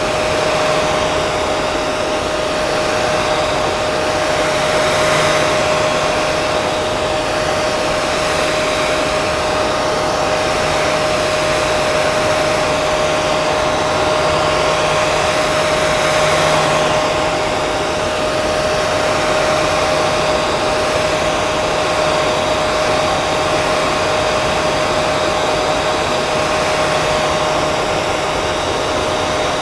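Hair dryer running continuously: a steady airflow rush with a constant motor whine, swelling slightly every few seconds.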